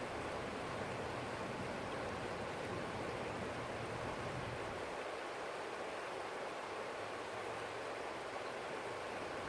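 Forest stream flowing, a steady, even rush of water. A faint low rumble underneath drops away about halfway through.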